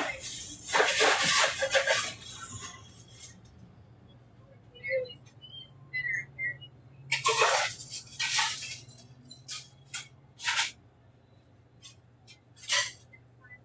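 Drinks being made in a food truck: a scatter of short clinks, knocks and rattling bursts, the loudest about seven seconds in. A steady low hum runs under them.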